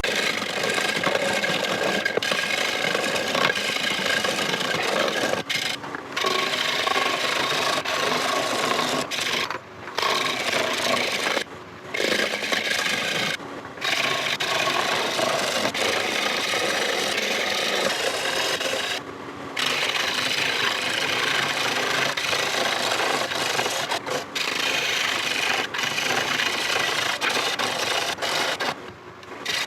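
Turning tool cutting into spinning rosewood on a lathe, a continuous scraping as the tenon is turned off the bowl's bottom. It breaks off briefly about six times where the tool is lifted from the wood.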